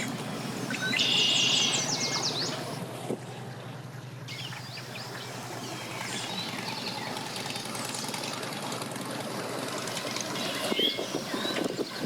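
A boat's engine running steadily at low speed, with birds chirping over it.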